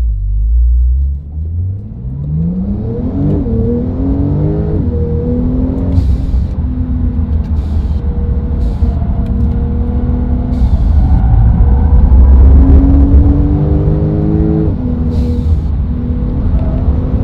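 Brabus-tuned Porsche 911 Turbo S twin-turbo 3.8-litre flat-six accelerating hard from a launch. The engine pitch rises steeply and drops at gear changes about three and five seconds in. It then runs at high revs, its pitch stepping up and down through the gears.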